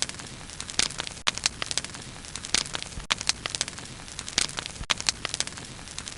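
Wood fire burning, with sharp, irregular crackles and pops over a steady hiss.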